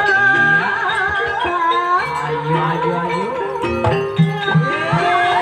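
Javanese gamelan music in campursari tuning, playing an ebeg accompaniment: a wavering melody line with strong vibrato over struck metallophone notes and sliding low tones.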